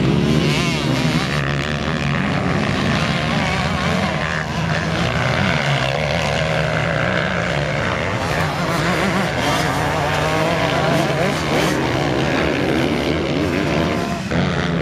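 Motocross bikes racing, among them a KTM 125 SX with its 125 cc two-stroke engine. The engines rev up and down without pause, their pitch rising and falling quickly over one another.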